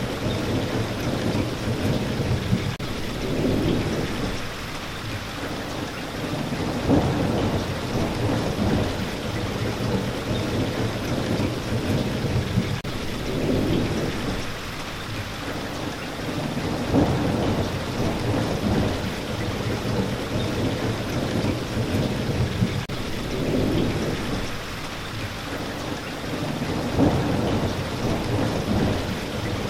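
Steady heavy rain with low rumbles of thunder that swell and fade, loudest about every ten seconds.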